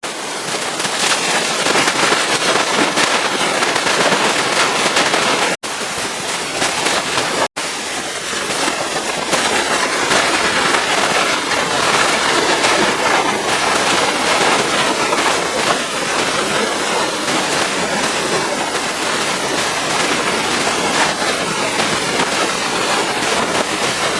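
Pressure washer's high-pressure water jet spraying against the truck, a loud dense crackling hiss, cut off twice for an instant about a third of the way in.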